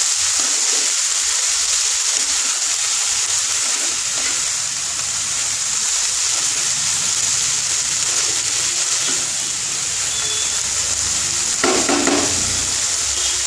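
Chopped red spinach sizzling in hot oil in a non-stick wok over a turned-up gas flame, stirred and scraped with a spatula. There is a steady hiss, briefly louder near the end.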